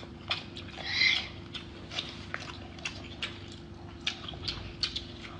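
Close-miked eating sounds: chewing and lip-smacking with irregular wet clicks, and a short breathy sound about a second in.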